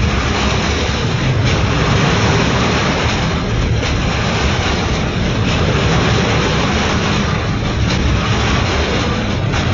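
Renfe freight train passing close by: a steady, loud rumble of wagons rolling on the rails, with no break.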